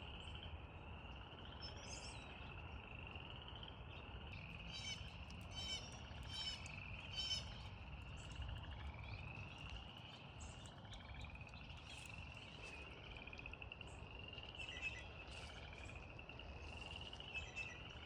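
A chorus of frogs giving rising, pulsed trills, one after another, each about a second long. Short, sharp bird calls break in several times, most of them between about four and eight seconds in.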